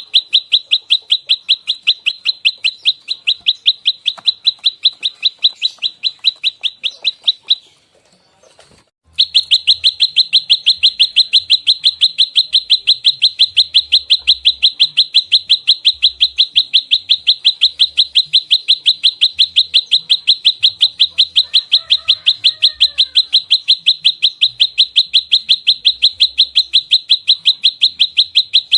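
Prenjak lumut (a small prinia-type songbird) giving its fighting call: a long, fast, tightly packed string of sharp high notes repeated at an even rate, the 'nembak rapat' delivery. It breaks off for about a second and a half around eight seconds in, then starts again.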